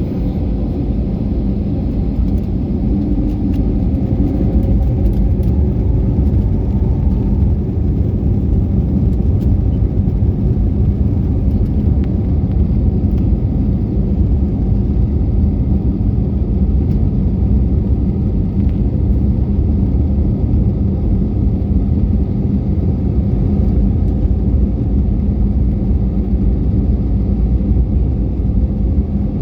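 Airbus A321neo engine and airframe noise heard from inside the cabin: a loud, steady, low rumble.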